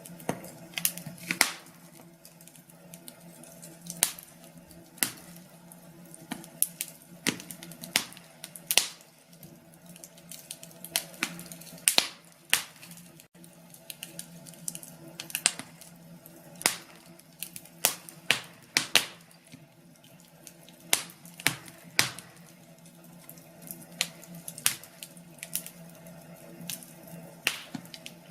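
Wood fire in a fireplace crackling, with irregular sharp pops and snaps, several a second, some louder than others, over a faint steady low hum.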